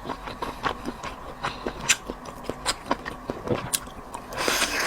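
Close-up eating sounds: irregular sharp, wet clicks as whelk meat is chewed, with a longer noisy rush near the end.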